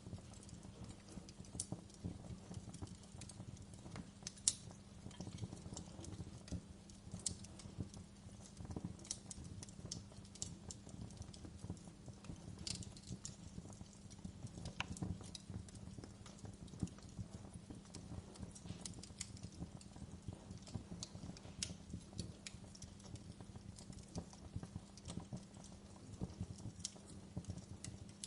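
Wood fire in a fireplace crackling, with many irregular sharp pops over a low steady rumble; one pop stands out about four seconds in.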